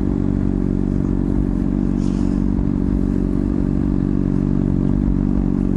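Honda CBR600RR's inline-four engine with an aftermarket slip-on exhaust, running steadily at low revs with no revving. The note is even, with a rumble that is loud even at low revs.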